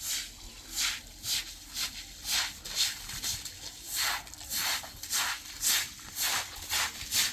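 Rhythmic scraping strokes, about two a second, from a hand tool worked back and forth against a rough surface.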